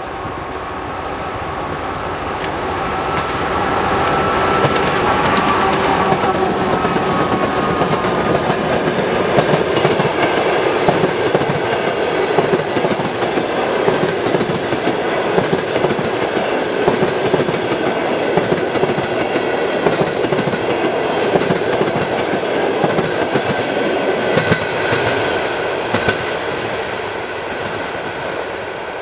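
Passenger train coaches rolling past at speed, their wheels clacking over the rail joints in a steady, loud rumble. The noise builds over the first few seconds and eases slightly near the end.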